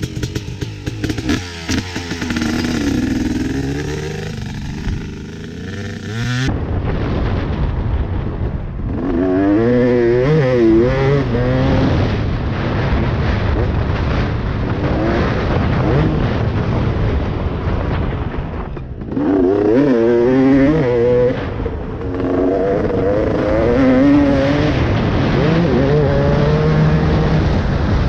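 KTM 250 SX two-stroke motocross engine running hard, its pitch rising and falling again and again as the throttle opens and closes. The sound changes abruptly about six seconds in.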